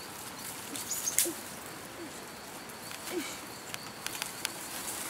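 Forest birds calling: short low notes repeating roughly once a second, with a few brief high chirps. A few sharp crackles are heard, about a second in and again near the end.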